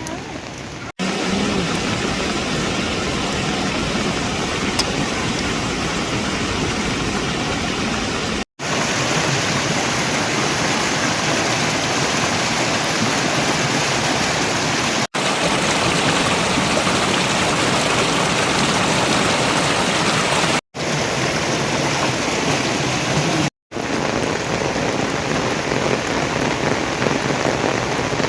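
Heavy rain falling steadily, a dense even hiss broken by five brief silent gaps.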